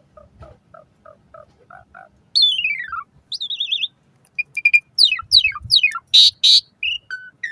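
Asian pied starling (jalak suren) singing a varied song: soft repeated double notes at first, then a long falling whistle, a warbled trill, a run of quick down-slurred notes, and two loud harsh calls near the end.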